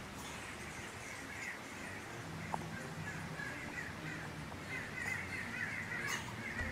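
Birds calling outdoors in scattered bursts, busiest near the end, over a faint steady background.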